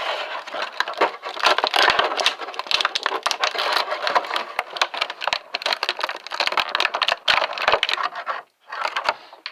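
Plastic packaging crinkling and rustling, with many small clicks, as an action-figure accessory is handled and freed from it. The crinkling stops about a second before the end, after one last short burst.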